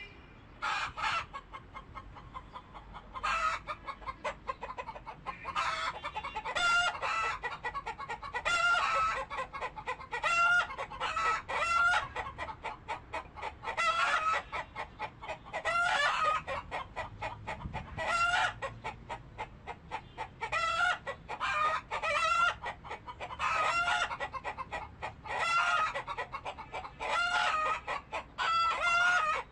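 Chickens clucking and calling, a steady stream of short pitched calls every second or so.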